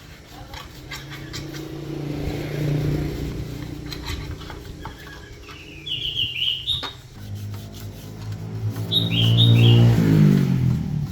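A small engine running, louder and rising in pitch in the second half and then dropping in pitch near the end. A bird chirps in short runs of falling notes three times.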